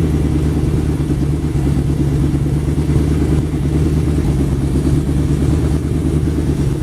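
Freshly rebuilt 426 Hemi V8 running steadily on an engine test stand, sounding as a healthy rebuilt Hemi should.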